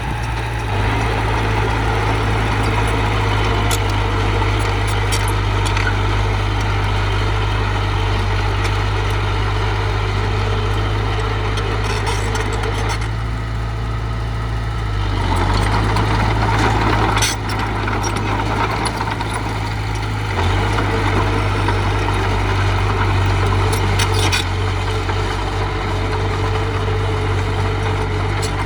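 Diesel engine of heavy earthmoving machinery running steadily, with a few short metallic knocks and clanks scattered through.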